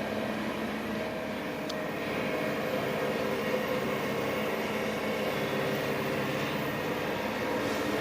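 Heavy earthmoving machinery at work: a diesel engine running with a steady drone.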